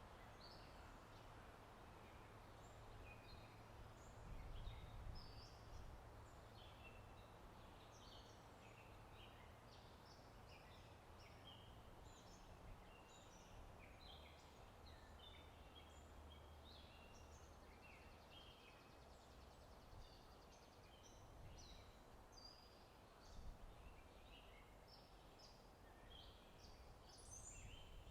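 Faint outdoor ambience: many songbirds chirping in a dense chorus of short, high calls over a soft steady rush of wind.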